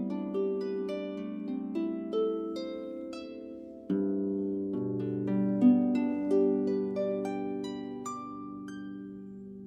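Solo harp playing: a run of single plucked notes that ring on over sustained low chords, with a new low chord struck about four seconds in, thinning out and fading near the end.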